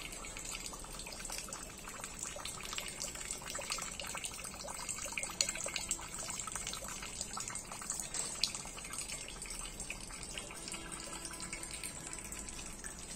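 Rain falling steadily on leaves and a shade net, with a thin stream of rainwater running off the net into a plastic drum. Many small drop ticks are heard over a steady hiss.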